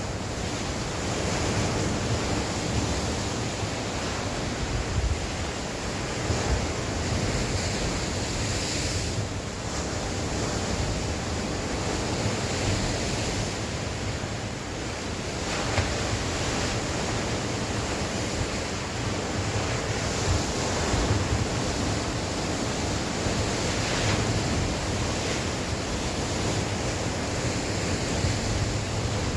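Sea waves washing steadily onto the shore on a windy day, with wind rumbling on the microphone.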